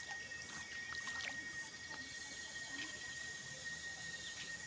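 Steady high-pitched insect chorus, with a few small clicks and faint trickling water.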